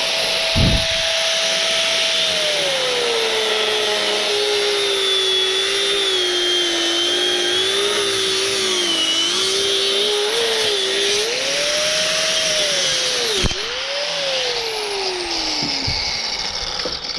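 Handheld power tool motor running loud, its whine dropping in pitch about two seconds in as it bogs under load and wavering while it works. Near the end it speeds back up, cuts out briefly, and then winds down with a steadily falling whine.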